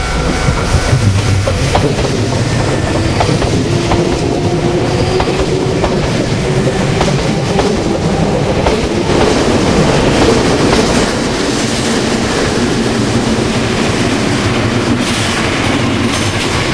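Nankai Kōya Line electric commuter train passing close by, its wheels clattering steadily over the rail joints, loudest about ten seconds in as the cars go past.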